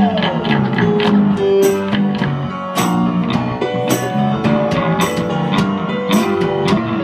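Live band playing an instrumental passage between sung lines: strummed guitar and bass notes with regular sharp percussion hits, like a tambourine or cymbal, on the beat.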